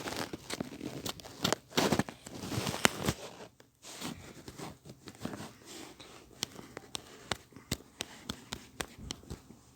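Crinkling and tearing sounds of material being handled for about the first three and a half seconds, then a run of light, irregular clicks and taps.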